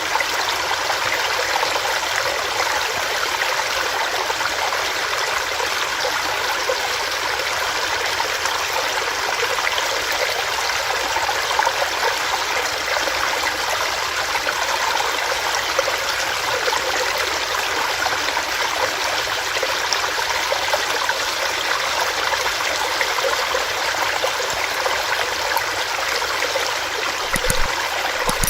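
Small rocky stream running over rocks: a steady, even rush of water with fine splashing and gurgling.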